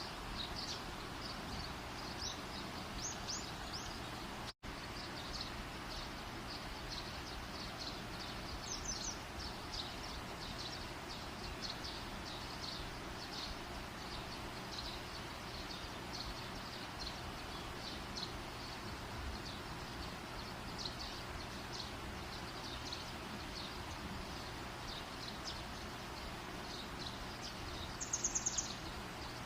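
Campfire burning with a steady hiss and frequent small, sharp crackles. A short high pulsing trill of a call sounds near the end, and the sound cuts out completely for a split second about four and a half seconds in.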